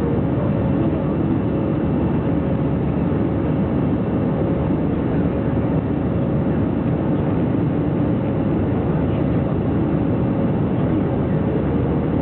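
Steady cabin noise of an Airbus A321-200 in flight after takeoff: the engines and rushing air make an even, unbroken noise, mostly low, with a faint steady hum.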